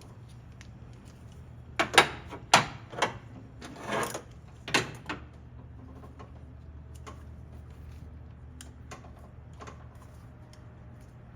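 A handful of sharp metallic clicks and clacks from hand tools being worked on a spark plug, a ratchet and socket wrench, grouped between about two and five seconds in.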